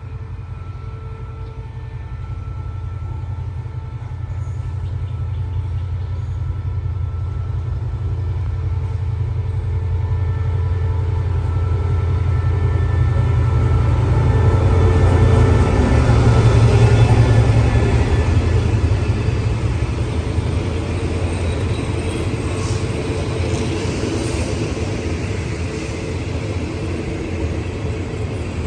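Diesel-electric locomotive (SRT QSY class) approaching and passing on the near track as the train pulls in to stop: a low engine drone that grows steadily louder, peaking a little past halfway as the locomotive goes by, then the rumble of passenger coaches rolling slowly past.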